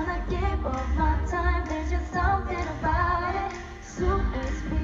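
Pop song performed live by a female vocal group: several women singing over a backing track with a heavy bass. The music dips briefly in loudness just before the end.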